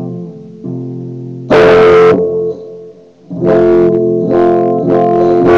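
Guitar playing an F power chord barred at the first fret: notes ring softly at first, then the chord is strummed hard about a second and a half in, and again in a run of strums from about three and a half seconds in.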